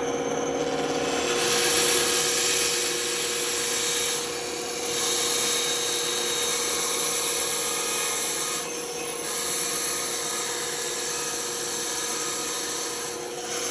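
Benchtop band saw running with a steady hum while its blade cuts through wood, a broad cutting hiss over the motor that eases off briefly a few times as the piece is fed.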